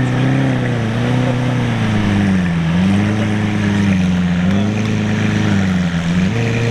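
A car engine running at low revs, its pitch dipping and rising gently every second or two.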